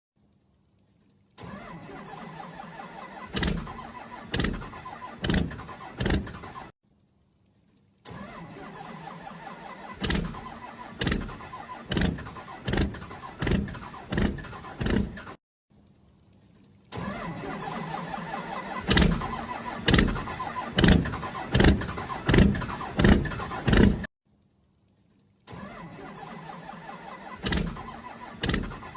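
Motorbike engine running, then revved in short, loud, sharp blips about once a second. The sequence repeats in several short clips separated by brief silences.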